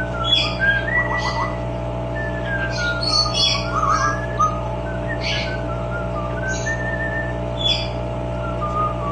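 Amazon parrot whistling a gliding, tune-like line that rises and falls, with short sharp chirps scattered over it. A steady hum runs underneath.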